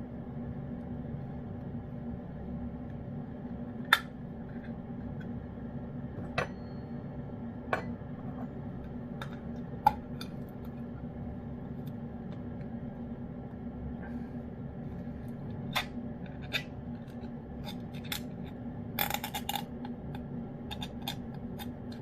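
Cats eating wet cat food from dishes: scattered sharp clicks and clinks against the dishes, bunched together near the end, over a steady low hum.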